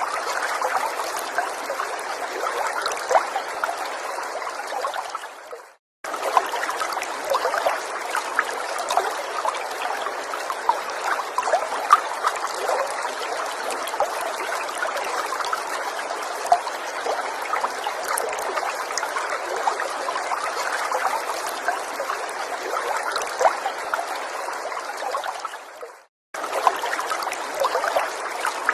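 Small forest stream trickling and babbling steadily, with many small sharp splashes in the flow. Twice, about six seconds in and again near the end, the water sound fades out to a moment of silence and then starts again abruptly.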